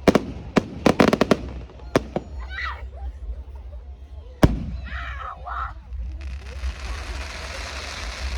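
Fireworks going off: a quick run of sharp bangs and crackles over the first two seconds, then a single loud bang about four and a half seconds in. Near the end comes a steady hiss.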